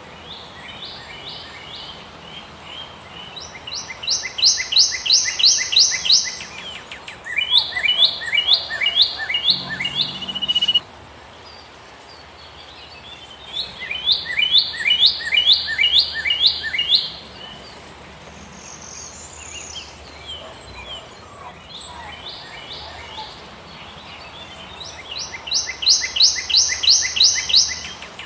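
Philippine pied fantail singing: four phrases of quick, repeated high chirping notes, each phrase a few seconds long, with short pauses between.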